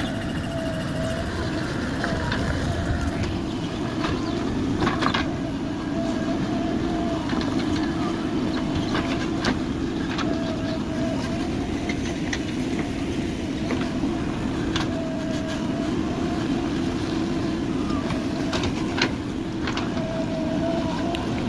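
JCB 3DX backhoe loader's diesel engine running steadily at work, with a wavering whine that comes and goes and a few sharp knocks.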